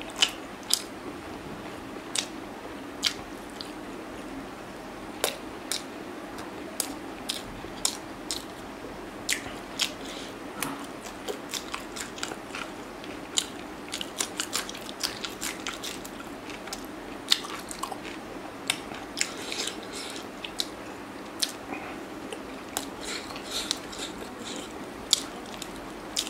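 Close-miked eating: a person chewing and biting mouthfuls of chicken and rice eaten by hand, including raw green chilli, with frequent sharp, irregular mouth clicks and smacks. A steady low hum lies underneath.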